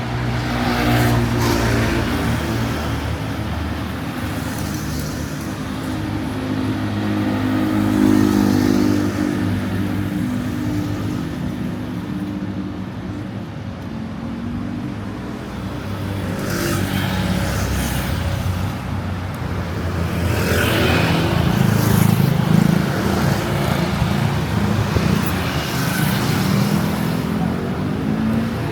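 Street traffic: vehicle engines running and passing close by, a low engine hum that swells about a quarter of the way in and again, loudest, about three quarters of the way in.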